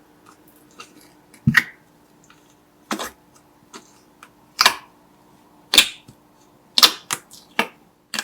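Slime being handled, making a string of sharp, separate pops and clicks, roughly one a second and bunching up near the end.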